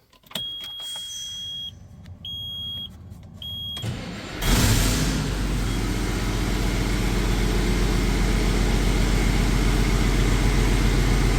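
Three short electronic beeps, then about four seconds in a Detroit Series 60 12.7-litre diesel starts and idles steadily with its turbocharger removed. It is run to build oil pressure and check whether oil sprays from the exhaust manifold side rather than from the failed turbo seal.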